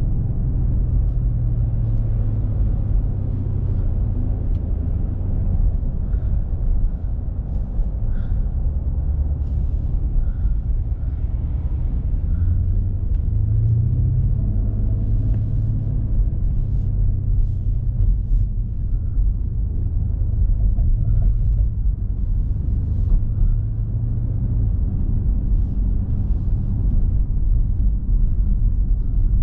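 BMW M5 Competition's 4.4-litre twin-turbo V8 running at a steady, low rumble while driving in traffic, with tyre and road noise. About halfway through, the engine note briefly rises as it accelerates, then settles again.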